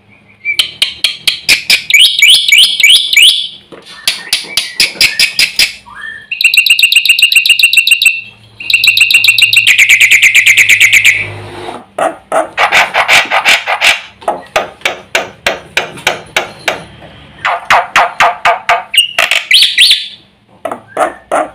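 Black-winged myna (jalak putih) singing loudly and continuously: rapid runs of sharp repeated notes and trills, switching phrase and pitch every second or two, with mimicked fill-in phrases mixed in.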